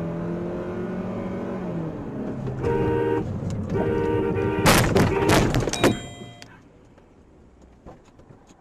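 A car horn blares twice over traffic noise, and right after it comes a loud crash: a cluster of sharp impacts lasting about a second. After the crash only faint background noise is left.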